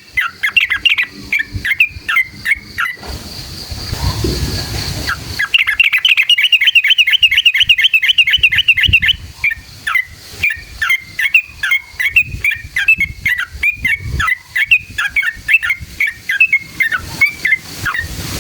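Yellow-vented bulbul (trucukan) singing a loud, rapid chattering song of quick notes, with a long fast rolling trill (the 'ropel') from about five and a half to nine seconds in. A low rumble fills a short break in the song at about four seconds in.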